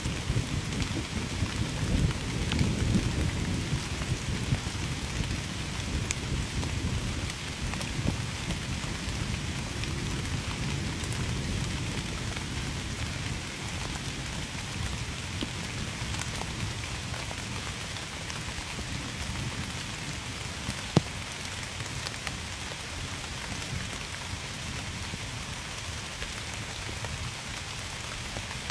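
Steady rain pattering on a surface, with individual drops ticking. A low rumble of thunder at the start dies away over the first ten seconds or so, and one sharp drop click stands out about two-thirds of the way through.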